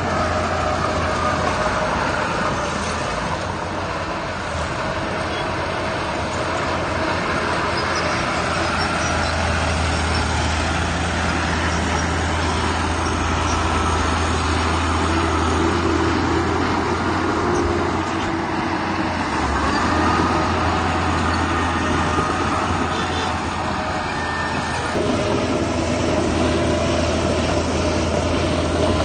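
Heavy diesel machinery running steadily under load: a continuous deep engine drone with whining tones above it that shift in pitch and come and go.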